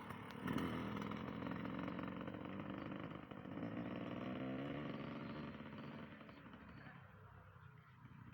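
Yamaha motorcycle engine running. It comes in loud about half a second in, revs up in pitch midway, then fades away over the last few seconds.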